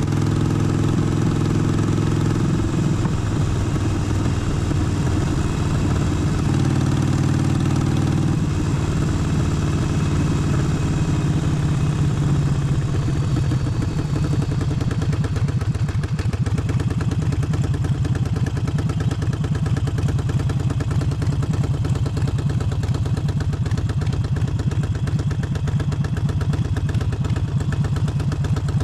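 Harley-Davidson Forty-Eight's air-cooled 1200 cc V-twin running loud and steady, its engine note changing pitch a few times in the first half as the throttle and engine speed change.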